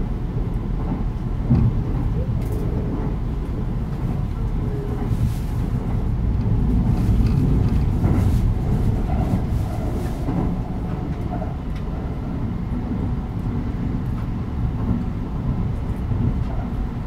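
Kintetsu 80000 series Hinotori electric train running between stations, heard from on board: a steady low rumble of wheels on rail and running gear, with a few faint clicks.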